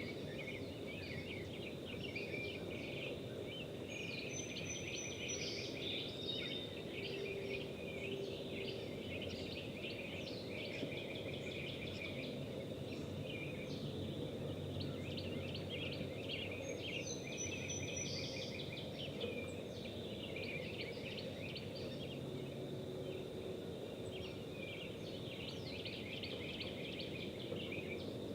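Morning birdsong: many birds chirping and singing continuously, with one bird repeating a short, high phrase of quick notes about every twelve seconds, over a low steady background rumble.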